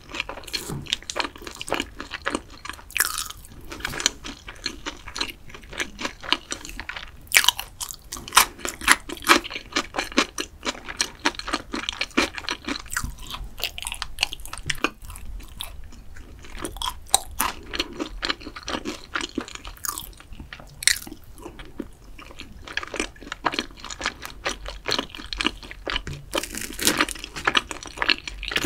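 Close-miked eating sounds: crisp crunching bites and chewing, the crunches coming irregularly throughout.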